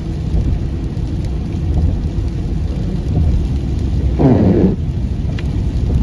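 Steady low rumble of a car driving at highway speed on a snowy road, heard from inside the cabin: tyre and engine noise. A brief louder sound comes about four seconds in.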